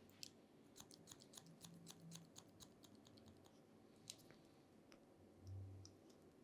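Faint, rapid clicking of barber's scissors snipping hair, about four snips a second, then a pause and a single snip. A brief low hum comes near the end.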